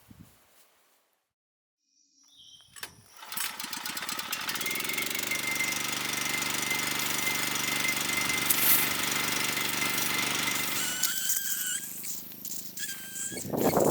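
A small engine starts about two and a half seconds in, comes up to speed and runs steadily, then drops back near the end with some high squeals.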